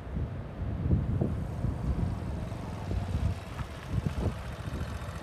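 Motorbike engine running on a rough off-road track, a low rumble broken by uneven jolts, with wind on the microphone.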